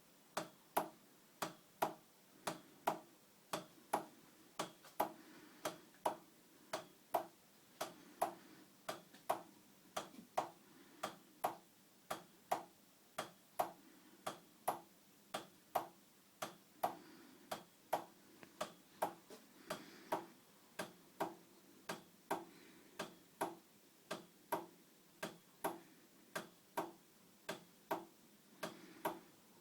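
Heinrici 55mm hot air (Stirling-type) engine running slowly, with a steady knock about twice a second.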